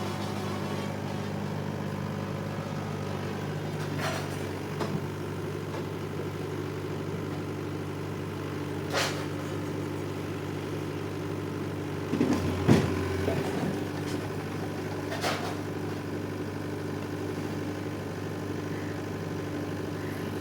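Sany SY80C excavator's diesel engine running steadily, with a few sharp knocks. About twelve seconds in comes a louder burst with a knock, the loudest moment.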